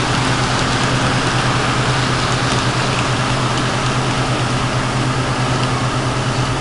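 Model train running on track: a steady electric hum under a constant rushing rattle.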